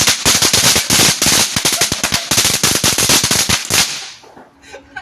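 Firework crackling: a rapid string of sharp cracks and bangs that stops about four seconds in.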